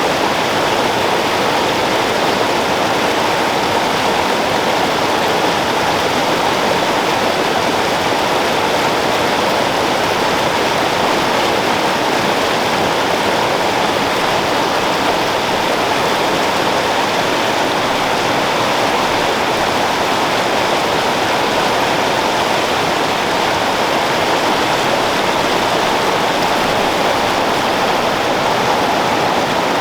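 Creek water flowing, a loud, steady rush without breaks.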